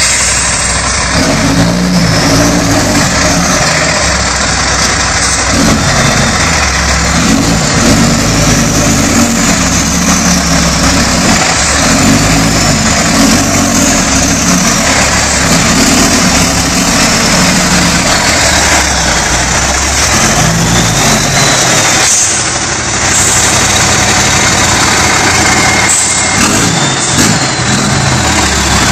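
Heavy truck engine running under load on the road, heard from the cab. The engine note rises and falls, and there is a short dip about two-thirds of the way through, as at a gear change.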